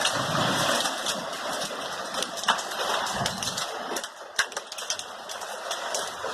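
Heavy hailstorm: a steady hiss of rain, with large hailstones striking in many sharp, irregular clicks.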